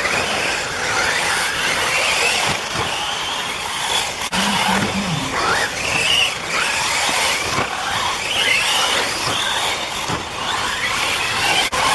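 Several 1/8-scale off-road RC buggies racing, their motors whining up and down in pitch over and over as they speed up and slow down around the track.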